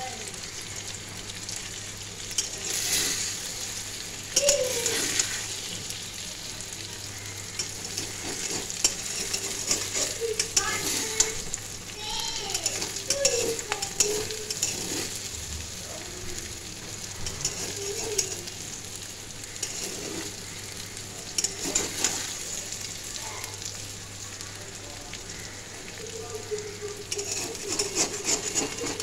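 Eggs and vegetables frying in oil in a steel wok: a steady sizzle, with a spatula scraping and knocking against the pan now and then.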